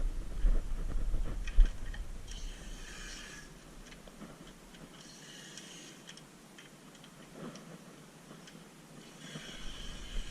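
Compressed-air spray gun hissing in three short bursts, each about a second long, with scattered small clicks between them: Noxudol rust-proofing being sprayed onto the car.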